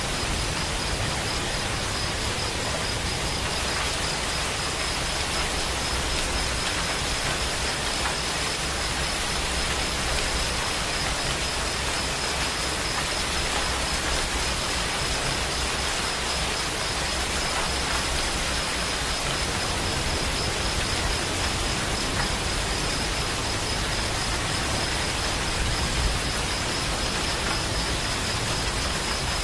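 Steady rain falling, an even hiss that does not change, with a faint high steady tone running through it.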